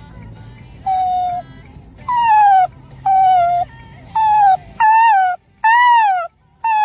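Dog whining: a run of about seven short, high whimpers, most falling in pitch, each about half a second long with brief gaps between them.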